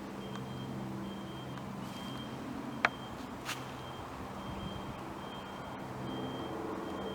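A truck's reversing alarm beeping steadily, a little more than once a second, over the low hum of its engine. A single sharp click about three seconds in.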